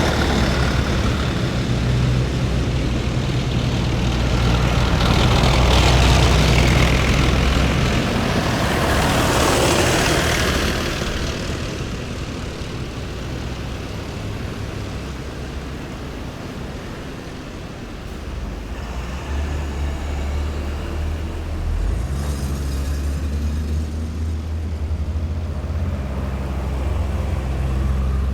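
Heavy military vehicles driving past in a column, their engines giving a steady low rumble. One passes closest about nine to ten seconds in, the sound then dies down for several seconds, and a fresh engine rumble builds again from about eighteen seconds in.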